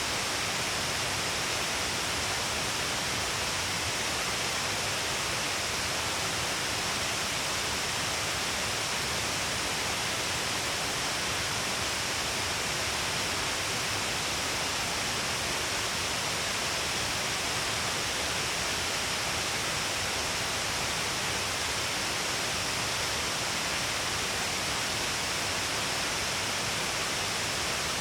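Shiraito Falls, a wide waterfall spilling in many streams along a cliff face, giving a steady, unbroken rush of falling water and spray.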